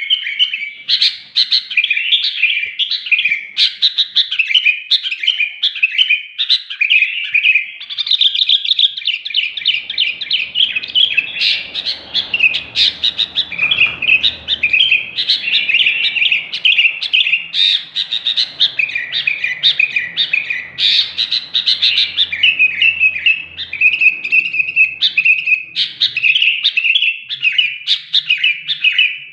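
Sooty-headed bulbul (kutilang) singing without pause: rapid, chattering strings of bright chirps and warbled notes, phrase after phrase, in full song.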